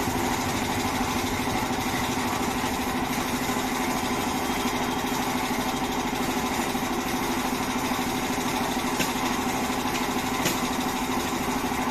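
A machine running steadily, a constant hum over a hiss, with a couple of faint clicks near the end.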